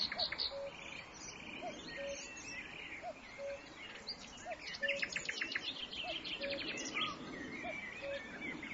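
Several songbirds chirping and calling over one another, with a rapid trill about halfway through. Underneath, a low two-note call repeats at even spacing, about once a second.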